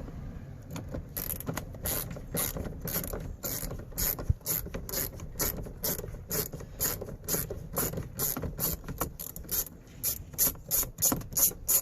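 Hand ratchet with a 10 mm socket clicking as it backs out a door-panel screw, a steady run of sharp clicks about three a second that comes faster and louder near the end.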